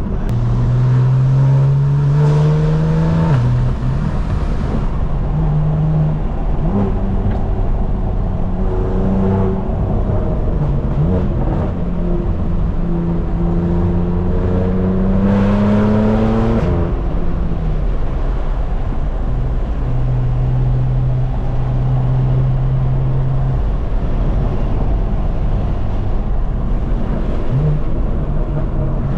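Straight-piped BMW M4 Competition's twin-turbo inline-six, driven hard. The engine pitch climbs and then falls at each upshift, with the longest pull ending in a shift about 17 seconds in, and it holds a steady note for a few seconds after that.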